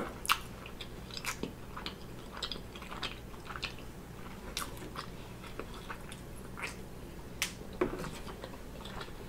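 A person chewing a mouthful of food close to the microphone: many small, wet mouth clicks and smacks at an irregular pace, with a few louder ones near the end.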